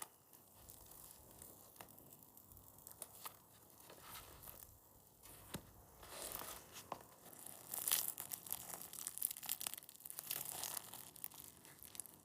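Close-up tearing and rustling handling sounds with crinkling and small clicks, louder and busier in the second half.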